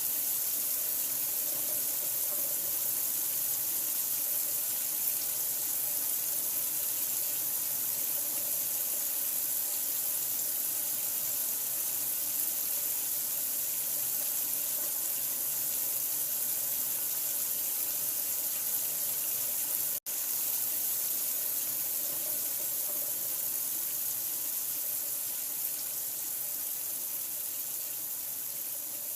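Steady running water, an even hiss heavy in the high end, as of a tap running into a sink, with a split-second cut about two-thirds of the way through.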